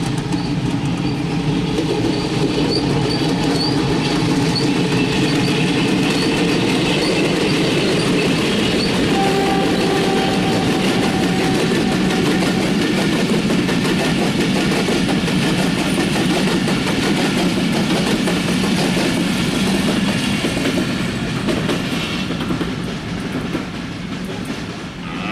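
Broad-gauge diesel-hauled passenger train passing close by, its coaches' wheels clattering steadily over the rail joints, dying away near the end.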